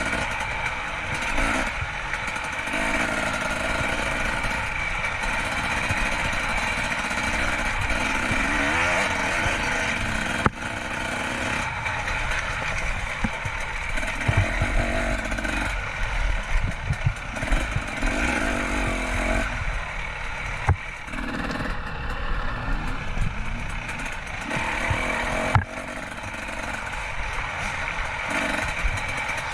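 Dirt bike engine revving up and easing off again and again as the bike is ridden hard through rutted corners, with a few sharp knocks from the bike over rough ground.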